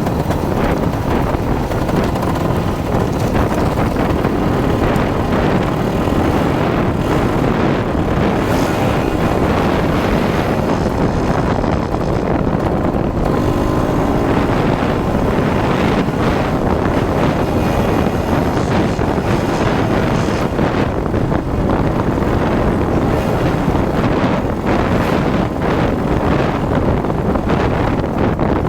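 Dirt bike engine running under way, with wind buffeting the microphone.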